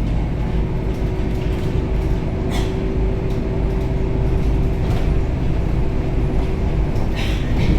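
Interior sound of a Scania K270UB city bus under way: steady engine and road rumble with a steady hum through it, and a few short rattles about a third in, two-thirds in and near the end.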